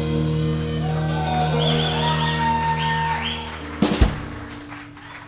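Live rock band ending a song: a held chord rings steadily, a last sharp hit lands about four seconds in, and the sound then dies away.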